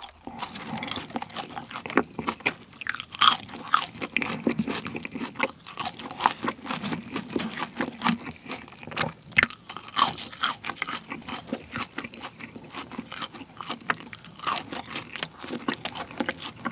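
Close-miked crunching and chewing of crispy French fries, with many sharp, irregular crunches.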